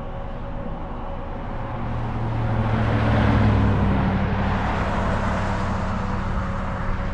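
A road vehicle passing close by: its engine and tyre noise build from about two seconds in, are loudest a little past the middle, then fade slowly.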